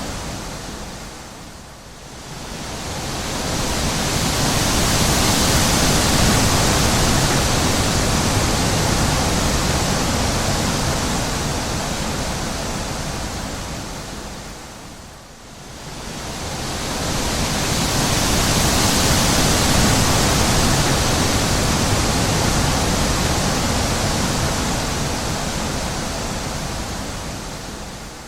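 Wind blowing in long, slow gusts: a rushing hiss that swells to a peak and sinks almost away, dipping about two seconds in and again halfway through.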